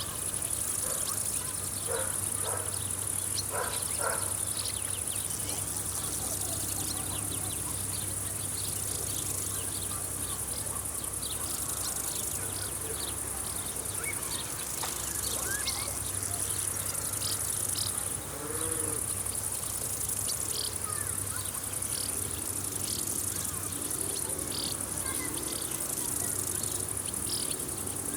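Summer field ambience: crickets chirring in a steady high drone, with a low insect buzz underneath and scattered short chirps.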